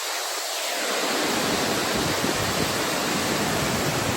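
Waterfall pouring: a loud, steady rush of falling water. Its low rumble fills in over the first second.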